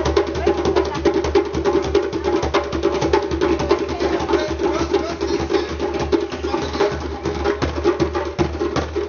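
African percussion playing a fast, dense rhythm of drum strokes that keeps going without a break.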